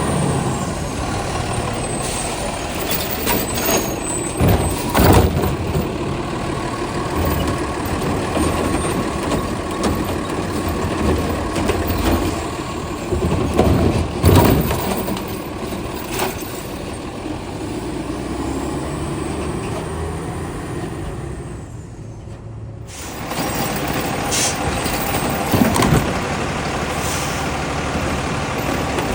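Heil STARR side-loading garbage truck running, with three loud bangs spread through (about a quarter, halfway and near the end). The sound briefly drops away about two-thirds of the way through.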